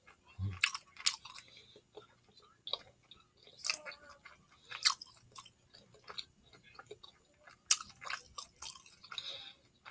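A person chewing a mouthful of Philly cheesesteak sub, close to the microphone: irregular sharp mouth clicks and smacks, a few of them much louder than the rest.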